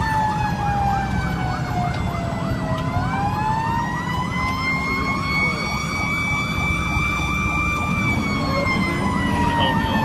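Fire engine's Federal Q mechanical siren winding down, spinning back up and holding, then winding down again, over an electronic siren yelping in quick rapid sweeps, with the truck's engine rumbling underneath.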